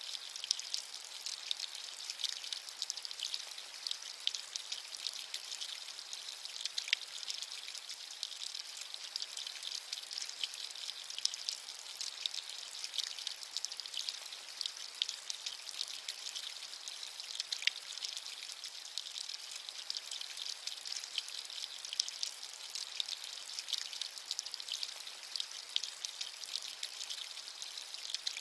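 Steady rain: a dense patter of individual drops over an even hiss, bright and thin with no low rumble.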